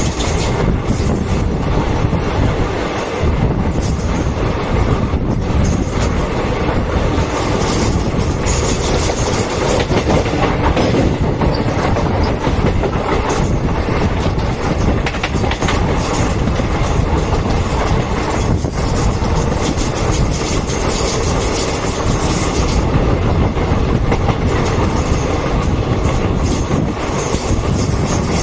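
Passenger train's coaches rolling past on the track, with a steady, loud clickety-clack of wheels over the rail joints that runs on unbroken.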